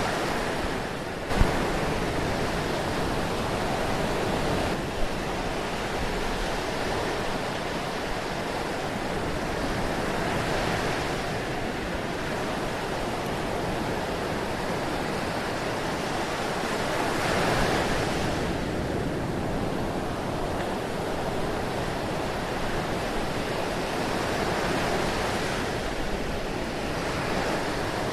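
Ocean surf: a continuous wash of waves that swells roughly every seven seconds as each wave breaks, with a sharp click about a second in.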